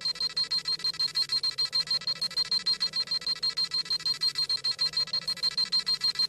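Dragon Ball Z scouter sound effect: rapid high-pitched electronic beeping, about six beeps a second, as the scouter scans a power level.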